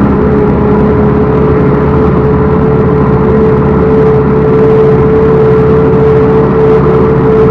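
Backhoe loader's diesel engine running steadily and loudly, with a steady whine held over it.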